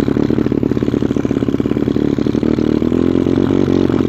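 125cc pit bike's single-cylinder engine running at a fairly steady speed.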